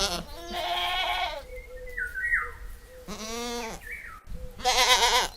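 Domestic goat bleating three times, each call wavering and lasting under a second.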